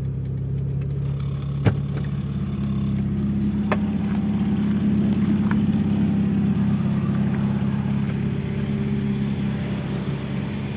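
A 1992 Honda Accord Maestro's fuel-injected four-cylinder engine idling steadily, with a sharp click about one and a half seconds in and a fainter click a couple of seconds later.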